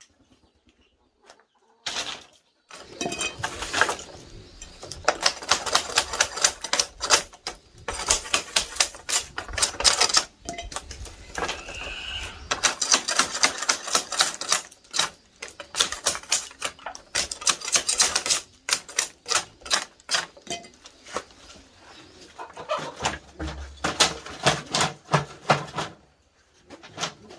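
Rapid knocking and tapping on wood, many strikes a second, in bursts of a few seconds with short pauses between them.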